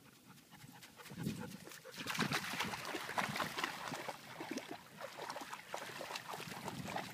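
A dog panting quickly and raggedly, starting faint and growing louder about a second in.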